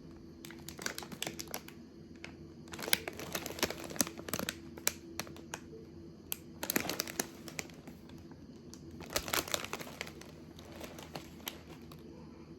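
Packaging crinkling and rustling in several short bouts of crackles as purchased items are handled and unwrapped.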